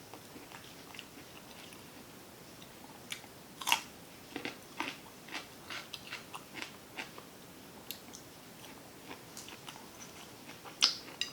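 Close-miked chewing and biting: a run of short, wet mouth smacks and clicks, the loudest a bite about four seconds in, with a few more near the end.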